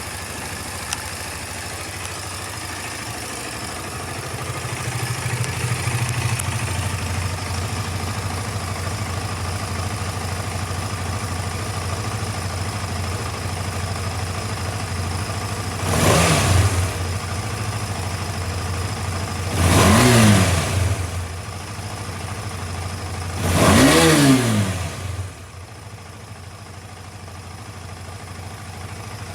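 KTM 250 Adventure's single-cylinder four-stroke engine idling, blipped three times with the throttle, each rev rising and falling quickly, then settling back to a quieter idle.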